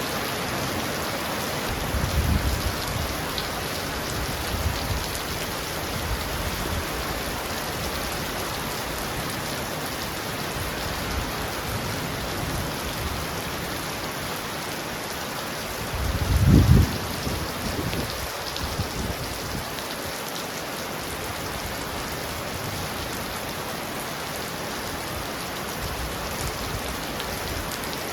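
Heavy rain pounding on a roof: a steady, dense hiss. Short low rumbles come through about two seconds in and again, louder, around the middle.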